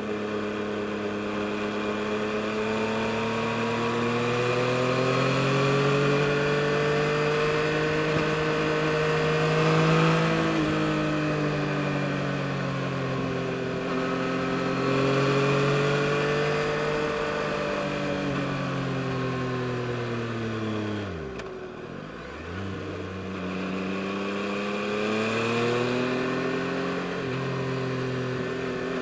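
2022 Yamaha MT-09 SP's 890 cc inline-three engine running under way, its pitch rising and falling as the bike speeds up and eases off. About three-quarters of the way in, the revs drop sharply, then climb again.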